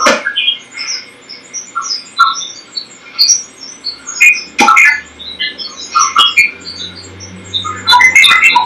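Unexplained bubbling, chirping blips at many different pitches coming through a TV from its satellite receiver, irregular and not repeating, with a few sharp snaps and pops among them.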